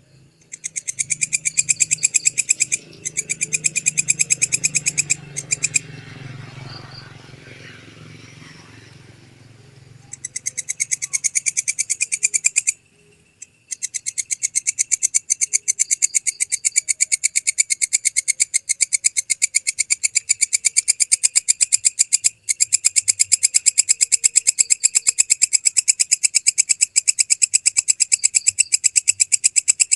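Walang kecek (belalang kecek) insect singing: a fast, even run of high-pitched clicking pulses in long trains. The trains break off a few times, with one long gap in the first third and a short one about halfway. A low hum sits underneath during the first third.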